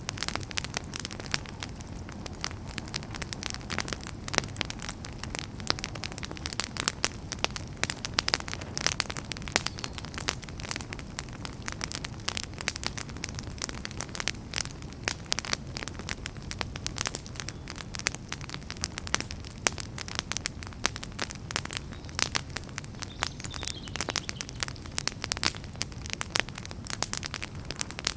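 Wood campfire burning: a steady low rumble of flames with dense, irregular crackles and pops from the burning firewood.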